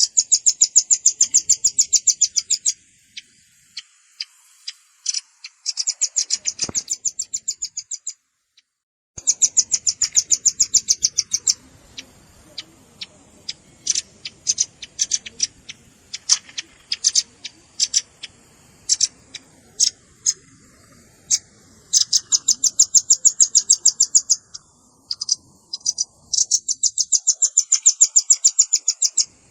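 Velvet-fronted nuthatch calling: sharp, high chipping notes, run together five times into fast trills of two or three seconds each, with single notes scattered between them.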